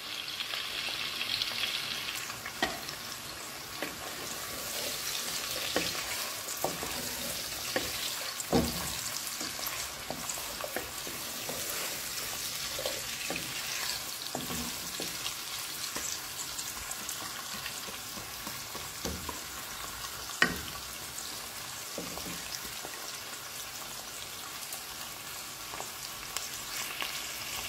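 Sliced onions, garlic and green chillies sizzling steadily in oil in a nonstick pan, stirred with a wooden spatula, with scattered sharp clicks as the spatula knocks against the pan.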